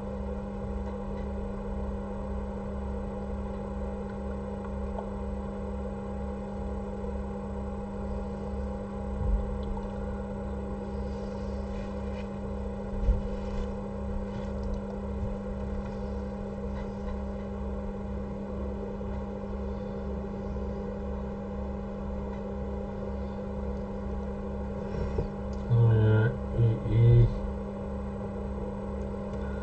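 Steady electrical hum from bench equipment, with a low throb pulsing about two to three times a second beneath it.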